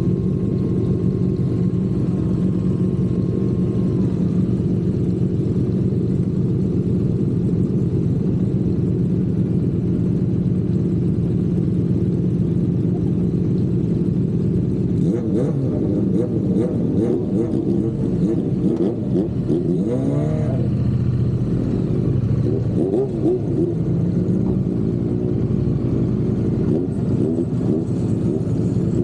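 Triumph parallel-twin motorcycle engine, heard from the bike as it is ridden. It runs at a steady pitch for about the first half, then revs up and down with the throttle, with a quick rise in pitch about twenty seconds in.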